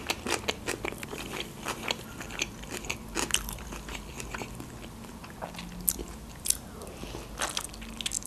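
Biting into and chewing a khinkali (Georgian dumpling) close to the mouth: a string of short, irregular clicks and smacks.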